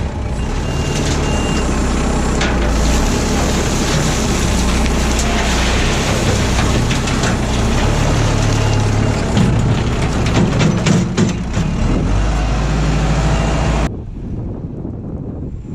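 Kubota M59 tractor's diesel engine working hard while its bucket digs and handles wet creek gravel, with stones clattering and knocking throughout. The loud running stops abruptly near the end, leaving a faint, windy hiss.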